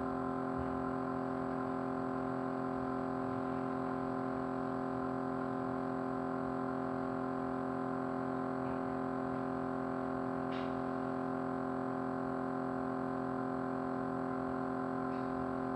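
Small motor running with a steady, unchanging vibrating hum, holding several tones at once, with a faint tick near the two-thirds mark.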